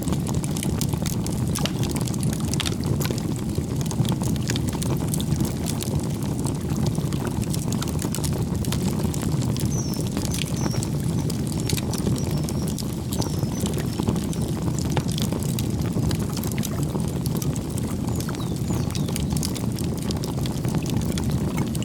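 Campfire burning with a steady low rumble and frequent sharp crackles and pops. Faint high bird chirps come in briefly about halfway through.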